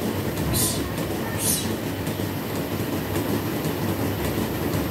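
Dairy milking plant machinery running, a steady rumble with a low hum, with two short hisses about half a second and a second and a half in.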